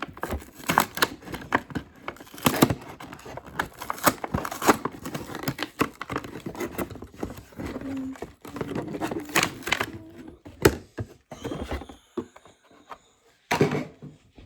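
Toy-car packaging being torn and crinkled open by hand: a dense run of crackles and rips that thins out after about ten seconds, with a last flurry near the end.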